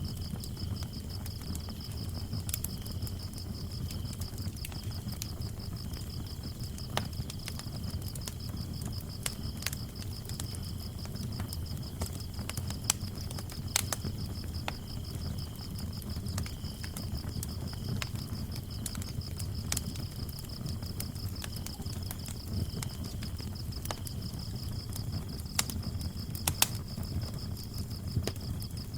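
Wood fire burning in a fireplace, with a low rumble and scattered sharp crackles and pops. Crickets chirp steadily throughout in a high, pulsing trill.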